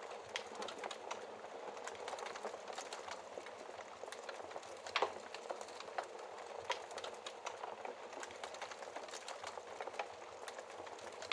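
Wood fire in a fireplace crackling, with a steady hiss and frequent small snaps, and a louder pop about five seconds in.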